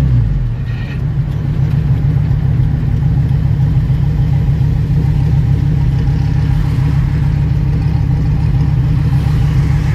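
Dodge Viper ACR-X's 8.4-litre V10 heard from inside the cabin: its revs drop away at the start as the car slows, then it settles into a steady, pulsing low idle rumble.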